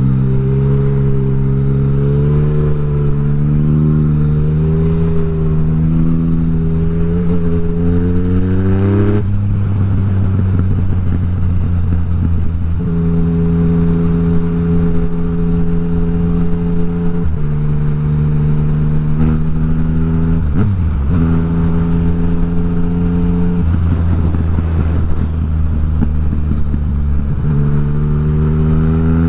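Yamaha MT-09's three-cylinder engine running loud through an Akrapovic exhaust with the dB killer removed. The engine pitch climbs slowly for about nine seconds, then drops, holds steadier with a brief dip, and climbs again near the end.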